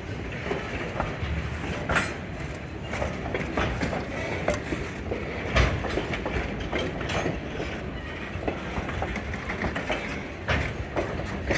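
Narrow-gauge railway equipment rolling slowly along the track, with a steady rumble and irregular clicks and clanks of wheels over rail joints.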